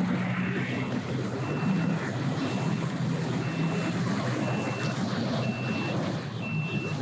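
A vehicle's reversing alarm beeping steadily, about one high beep a second, over the low running of an engine.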